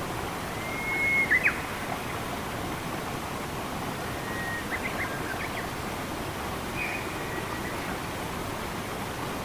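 Steady rush of running water, with a bird whistling clear held notes and quick upward flicks, the loudest about a second in and more a few seconds later.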